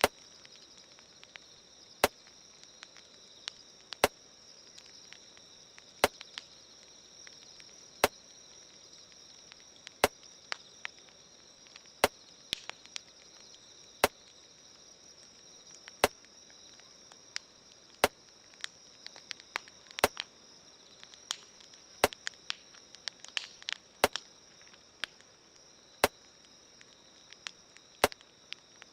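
Campfire crackling with irregular small pops, under a sharp click that repeats exactly every two seconds like a slow added beat. A steady high-pitched hiss runs underneath.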